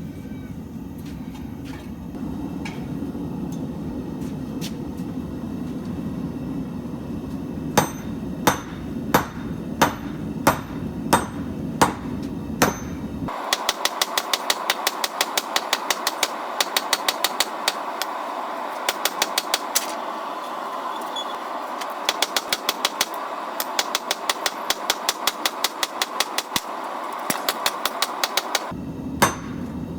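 Hammer blows on steel being forged on an anvil. At first the blows are single, about one and a half a second, over a steady low rumble. After a sudden change about halfway through, the rumble drops out and the hammering comes in quicker runs of about three or four blows a second.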